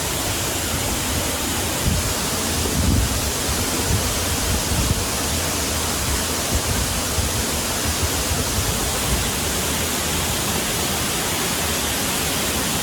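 Waterfall: a loud, steady rush of falling water, with uneven low rumbles underneath.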